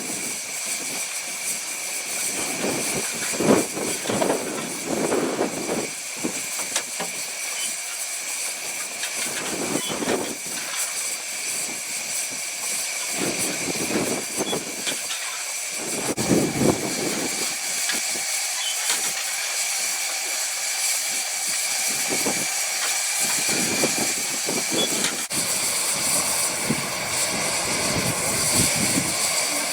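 A Romney, Hythe and Dymchurch Railway train at the station, heard as a steady hiss, with irregular gusts of wind buffeting the microphone.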